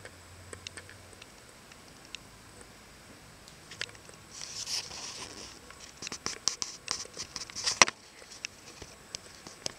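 Metal slinky coils picked up through a contact microphone: scattered light clicks, then a busier run of rattling and scraping from about four to eight seconds in that ends in one sharp snap, followed by a few more ticks.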